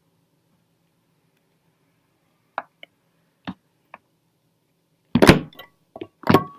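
A few light clicks and knocks, then two louder thuds near the end.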